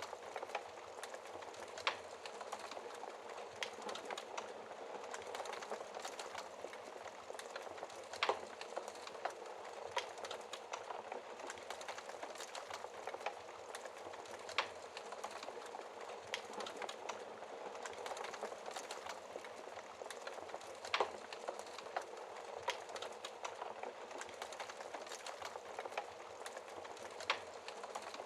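Wood fire burning in a fireplace: a steady hiss with constant small crackles and a sharper pop every few seconds.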